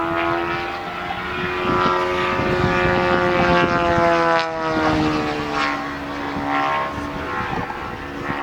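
Engine and propeller of a large-scale model Yak 54 aerobatic plane, running as it flies overhead. Its pitch climbs gently, drops about five seconds in, then sinks a little lower.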